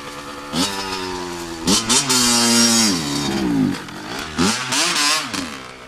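Dirt bike engine revving. It climbs sharply twice and holds high for about a second before dropping back, then the throttle is blipped twice more, shorter, near the end.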